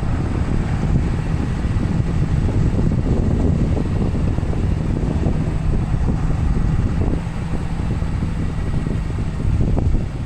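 A Cummins diesel plow truck's engine running steadily, a low drone with a held hum.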